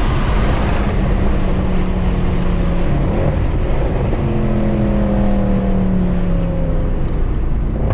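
Mercedes C63 AMG's 6.2-litre V8, with secondary cats and resonators deleted, running hard under load on a race track, heard from inside the car. Its note changes about three seconds in, then holds and sags slowly in pitch.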